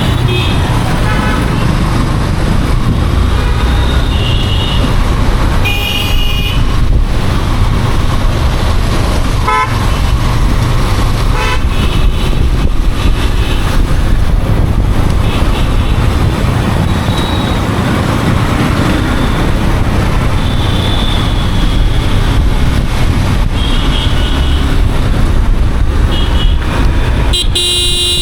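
Yamaha FZ motorcycle riding through city traffic: a steady rumble of engine and road noise, with vehicle horns honking several times, the loudest near the end.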